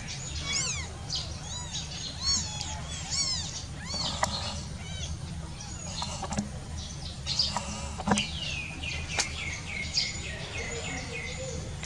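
Birds chirping and calling: a string of short, high, rising-and-falling calls that keeps going, over a low steady hum.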